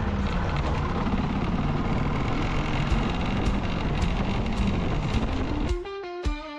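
Yamaha Ténéré 660's single-cylinder engine running under way, a steady low rumble with wind buffeting the microphone. About three-quarters of the way through it cuts off suddenly and plucked guitar music takes over.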